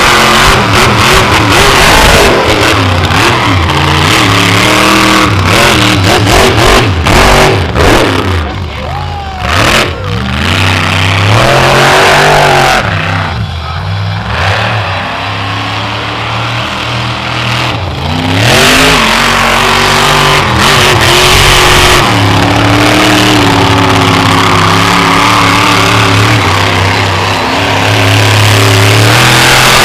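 Monster truck engine revving hard under heavy throttle, its pitch repeatedly rising and falling. It eases off about halfway through, then climbs back to full power and holds there near the end.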